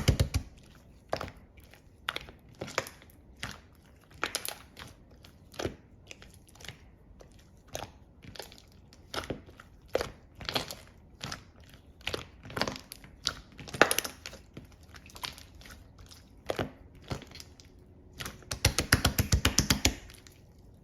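Slime being squeezed and worked by hand, giving sharp sticky pops and crackles one after another, with rapid runs of pops at the start and again near the end.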